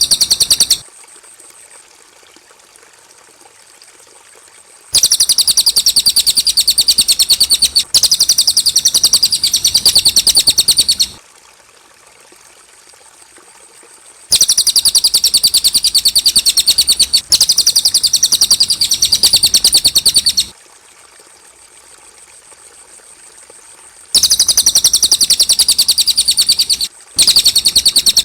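Cililin songbird singing: long runs of very rapid, high-pitched repeated notes, each run lasting about six seconds, with pauses of a few seconds between them. Near the end the song breaks into two shorter runs.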